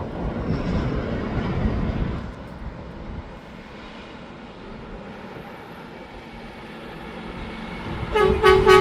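Mack McNeilus front-loader garbage truck's diesel engine going by loud and fading to a steady drone, then a truck horn giving a quick run of short toots near the end.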